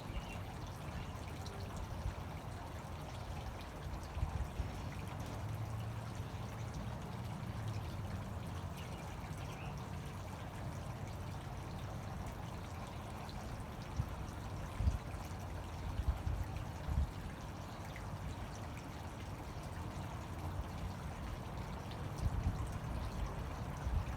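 Fountain water falling and splashing in a steady, even rush, with a few brief low thumps in the second half.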